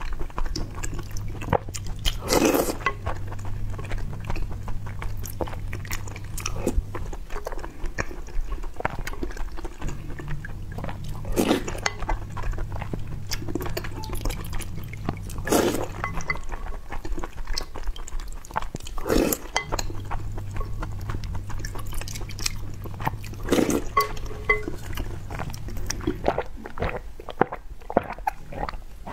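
Close-miked wet chewing and smacking of soft glutinous rice balls and red beans in milk tea, with louder smacks every few seconds. Near the end, a sip through a straw.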